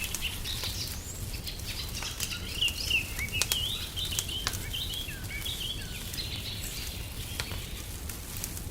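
Small birds chirping and twittering almost without pause, over a fire crackling with scattered sharp pops and a steady low rumble beneath.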